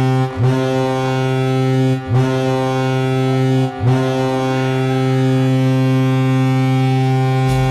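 Hockey goal horn blaring right after a goal is scored: one loud, low, steady horn tone. It breaks briefly three times, each time sliding back up in pitch as it resumes.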